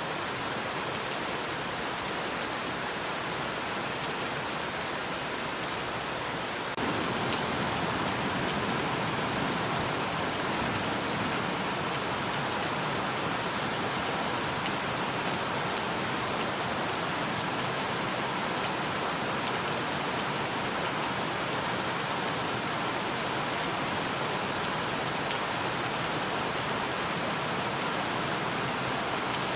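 Steady rain falling and pattering on surfaces, an even hiss of many drops. About seven seconds in it becomes louder and fuller, then holds steady.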